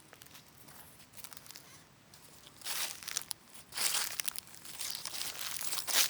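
Footsteps crunching through dry forest leaf litter, faint at first and louder from about two and a half seconds in, a crunch roughly every second.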